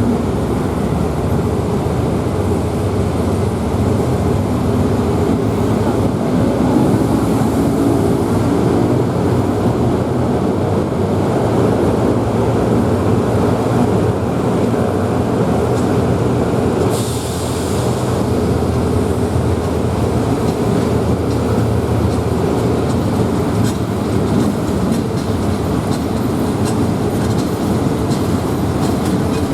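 Diesel-hauled State Railway of Thailand passenger train running along the track, a steady rumble and hum of wheels and locomotive throughout. About seventeen seconds in, a brief high-pitched sound rises over the running noise.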